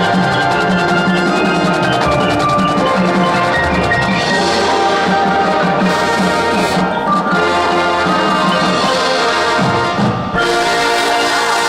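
High school marching band playing its field show: sustained brass chords over drums and percussion, with a short drop in the sound near the end before the full band comes back in.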